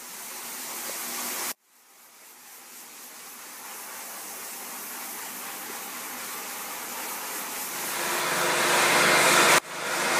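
Electric floor-cleaning machine running with a steady whirring hiss while dirt is cleaned out of terracotta floor tiles. The sound cuts off abruptly about one and a half seconds in, and again shortly before the end; between the cuts it builds and is loudest in the last couple of seconds.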